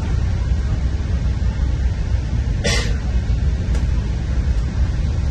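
Steady low rumble of a Metra commuter train, with a short burst of hiss about two and a half seconds in.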